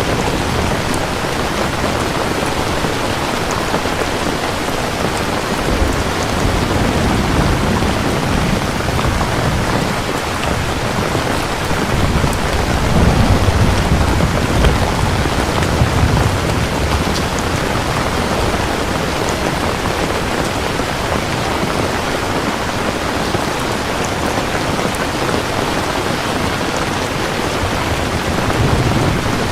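Steady heavy rain falling, with low rolling rumbles of distant thunder that swell roughly halfway through and again near the end.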